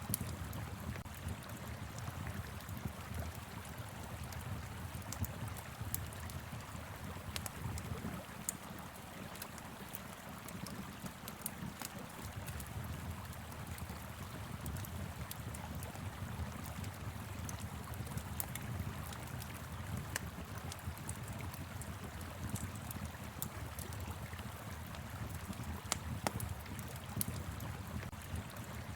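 Wood fire crackling, with frequent sharp snaps and pops, over the steady rush of a flowing river.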